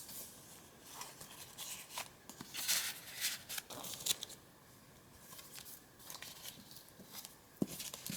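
Pages of a handmade paper journal being turned by hand in a quick flip-through: irregular paper rustles and flaps, busiest about three seconds in, with a sharp tap near the end.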